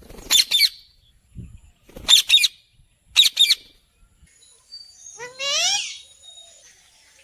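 Parrot squawking: three sharp double squawks, then a longer rising screech about five seconds in.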